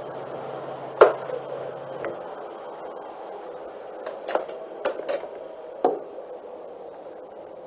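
A handful of short, sharp knocks and clicks, the loudest about a second in and several more in quick succession a few seconds later, over a faint steady hum that stops about two seconds in.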